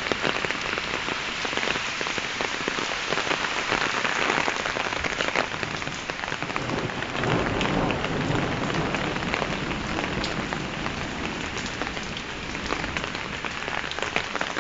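Heavy rain falling on hard surfaces, a steady downpour full of individual drop impacts. A low rumble of thunder swells about halfway through.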